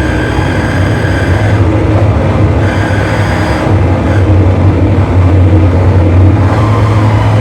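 Loud distorted drone from a live noise or experimental electronic set: a heavy steady low hum under a dense wash of noise, changing little.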